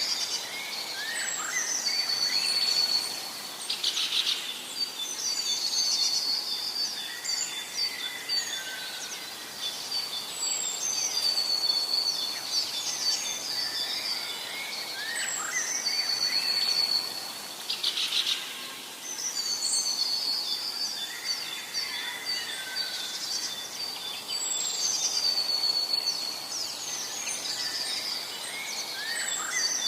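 Forest birdsong: one bird repeats a short phrase of falling notes ending in a high trill about every four to five seconds, over a steady thin high tone and a faint background hiss.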